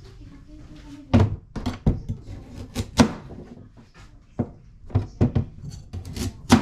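Irregular knocks and clatter of kitchen items being handled and set down, about a dozen sharp hits at uneven spacing, starting about a second in.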